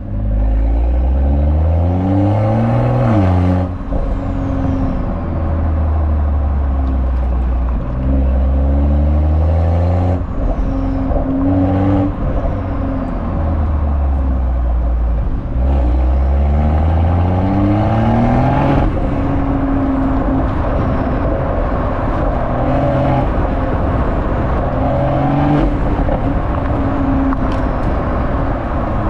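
BMW M340i's B58 3.0-litre turbocharged inline-six engine through its exhaust, revved up several times. The pitch climbs and then drops away sharply about 3 seconds in, about 10 seconds in and about 19 seconds in, with steadier running between and after.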